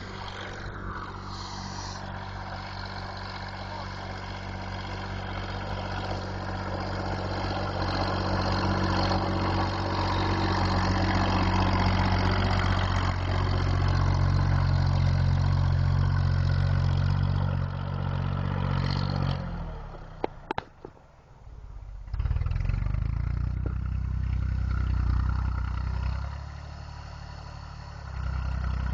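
Massey Ferguson tractor engine working hard. It grows louder over the first dozen seconds, drops away sharply about twenty seconds in with a few clicks, then picks up again, eases off and returns near the end.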